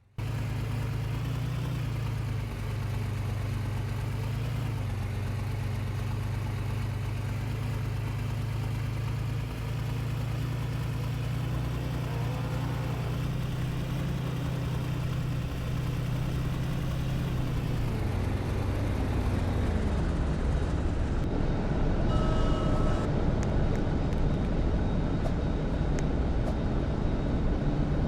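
A motor vehicle running, with steady engine and road noise; the engine note drops about two-thirds of the way through. A short high tone sounds briefly about three-quarters through.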